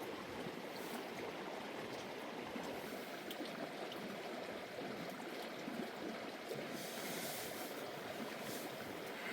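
Steady rushing, water-like noise with a few faint ticks.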